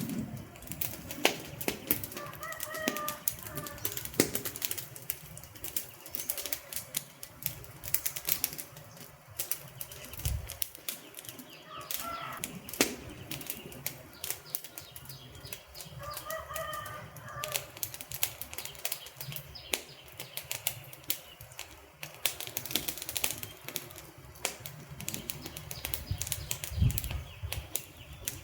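Wood fire crackling, with dense, irregular sharp pops and snaps. Three short pitched calls sound faintly behind it, about three, twelve and sixteen seconds in.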